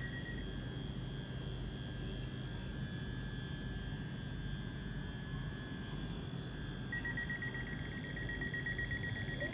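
ScotRail class 385 electric train standing at the platform, humming with a steady high whine. About seven seconds in, a rapid high electronic beeping starts: the door warning alarm.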